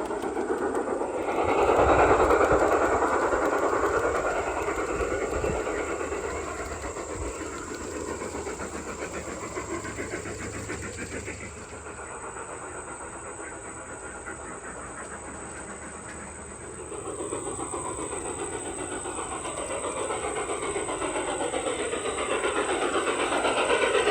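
Garden-railway model train rolling along its track with a rattling clickety-clack. It passes close about two seconds in, fades as it moves away, and grows louder again near the end as it comes back round.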